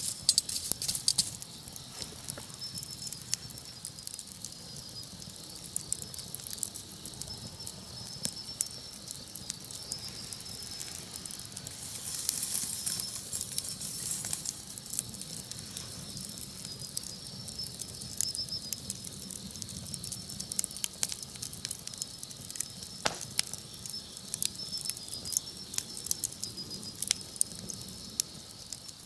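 Wood campfire crackling, with irregular sharp pops and snaps over a soft hiss of burning wood and one louder snap late on.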